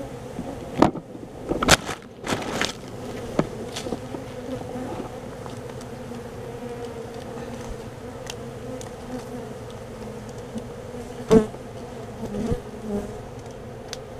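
A colony of honey bees buzzing steadily, a continuous hum, with a few sharp knocks and clicks over it, several in the first four seconds and a loud one about eleven seconds in.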